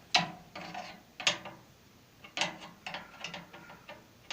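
Irregular sharp metallic clicks and clinks from hand work on a microwave oven's control-panel parts, one loud click just after the start and another about a second in, then a quicker run of smaller clicks.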